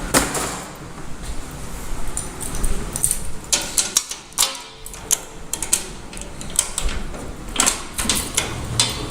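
Irregular metallic clicks, knocks and rattles of keys and hardware being handled, with clusters of sharp clicks near the middle and near the end.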